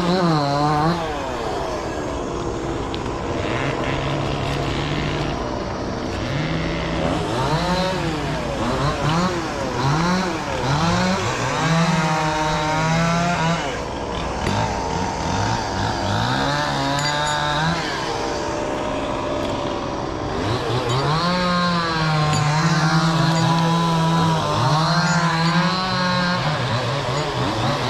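Two-stroke chainsaw revved again and again, its pitch climbing sharply and falling back, then holding a steady idle between cuts.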